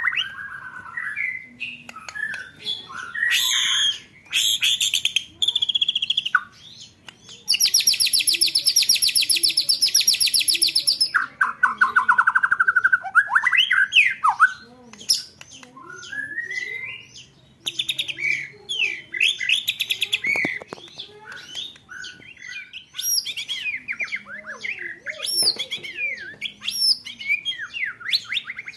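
Songbird song training material with rapid 'roll tembakan' rolls: varied gliding whistles and chirps, broken by a loud, very fast rattling roll lasting a few seconds about a third of the way in, then a quick trill and more chirped phrases.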